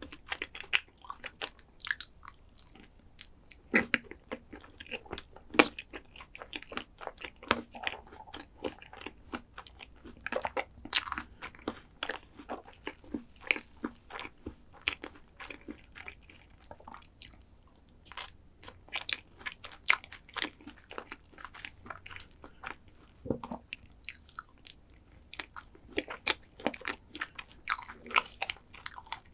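Close-miked chewing and crunching of chocolate dessert: irregular crisp crunches and bites, several a second, with short pauses between mouthfuls.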